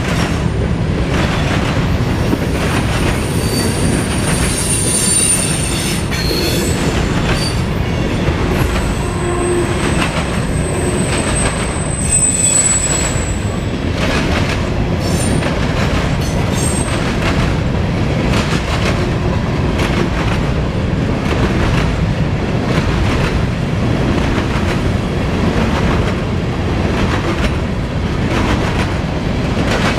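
Freight cars of a grain train rolling past close by: a steady heavy rumble with wheels clicking over the rail joints, and high thin wheel squeals, the loudest coming about 9 to 13 seconds in.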